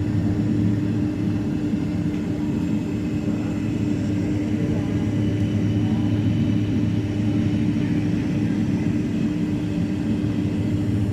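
Steady drone inside the cabin of a Boeing 767-300ER airliner, with a constant low hum underneath.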